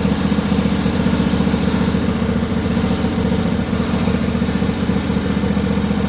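Riding lawn tractor's engine running steadily at an even speed.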